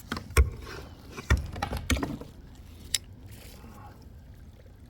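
Four hard knocks and thumps of gear being handled in a kayak, the loudest about half a second in, as the landing net is grabbed to land a hooked bass.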